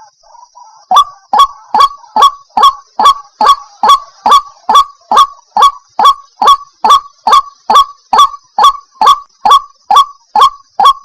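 White-breasted waterhen calling a fast, even series of loud "kwak" notes, a little more than two a second, starting about a second in after a short softer stretch; this is the repeated ruak-ruak call used as a lure for the species.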